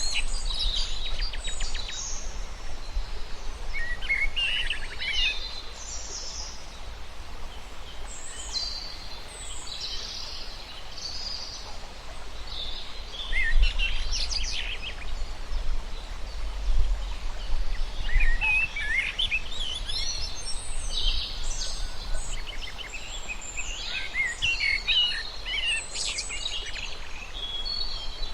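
Songbirds singing: bursts of quick, high chirps and trills coming every few seconds over a steady background hiss, with a low rumble underneath.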